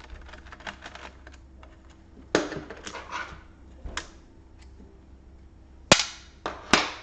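Sharp clicks and knocks of small plastic and metal laptop parts and tools being handled during disassembly: light ticks at first, a knock with a short rattle, then a few loud clicks near the end.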